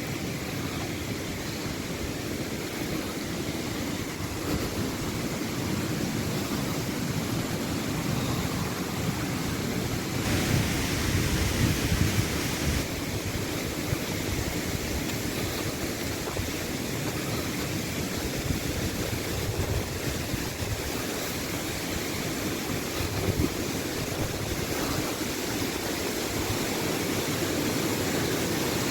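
Woodland stream in spate after heavy rain, rushing steadily.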